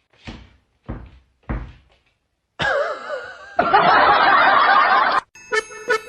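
Three dull thumps about half a second apart, then a wavering high sound, a second and a half of loud harsh noise, and music with a plucked beat starting near the end.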